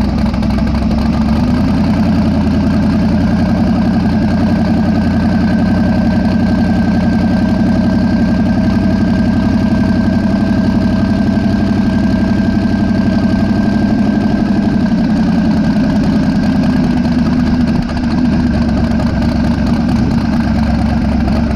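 Twin-turbocharged Mazda B2000 pickup engine running steadily at low, even revs, with a short dip in level near the end.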